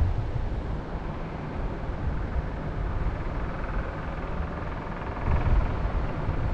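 Wind gusting against the microphone, a low buffeting rumble over a steady rushing hiss, with a stronger gust about five seconds in; a softer rushing sound swells and fades in the middle.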